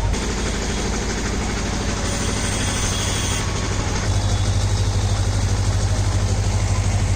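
A vehicle engine idling: a steady low throb with fast even pulsing that grows louder about four seconds in.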